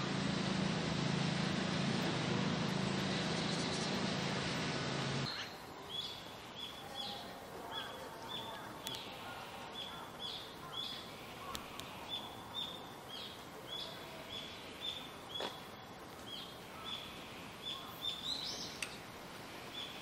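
A steady, noisy hum cuts off suddenly about five seconds in. After that a small bird gives short, high chirps, about two a second.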